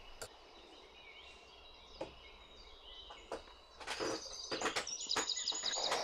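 Quiet outdoor background with a few faint clicks, then small birds chirping from about four seconds in, ending in a quick series of short high notes.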